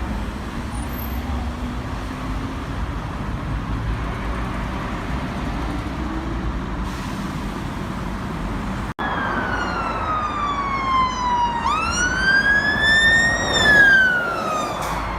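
Steady rumbling road-vehicle noise. After a brief dropout, a wailing siren tone slides down, sweeps back up and falls again.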